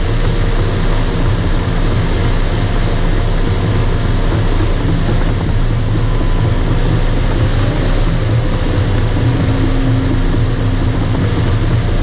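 Bulldozer's diesel engine running steadily and loud, with the machine's working clatter and track noise.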